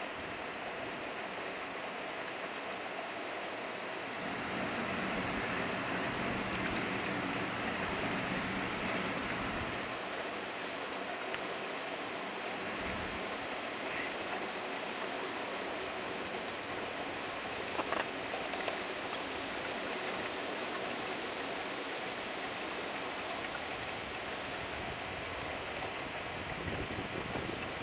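Hard hail falling steadily, a dense patter of hailstones hitting surfaces. It grows heavier for several seconds about a quarter of the way in, and a few louder knocks stand out about two-thirds of the way through.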